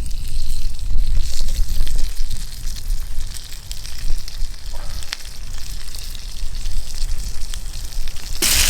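Steaks sizzling over a campfire, a steady hiss with faint crackles. Near the end the sizzle suddenly gets much louder.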